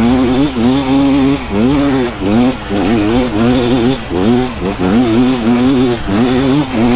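A 2024 KTM 300 XCW's 300 cc two-stroke single-cylinder engine revving up and down over and over as the rider works the throttle climbing a steep hill, its pitch rising and falling two or three times a second.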